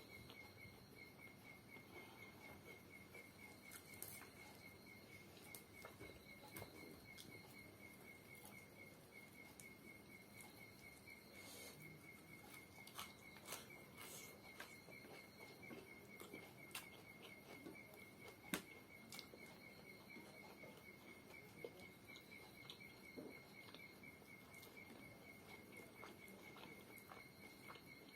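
Quiet eating sounds: scattered soft clicks and smacks, with one sharper click about two-thirds of the way in. Underneath runs a steady, fast-pulsing high trill of insects.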